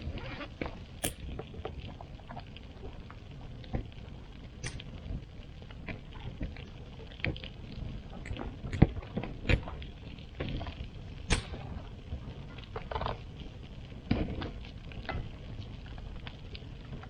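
Irregular rustling, scraping and light knocks of hand work clearing up around a campsite, with a few sharp pops, probably from the campfire.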